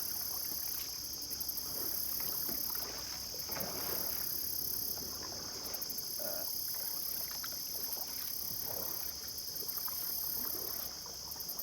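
Kayak paddle blades dipping and pulling through the water, a soft swish every two to three seconds, over a steady high-pitched insect chorus.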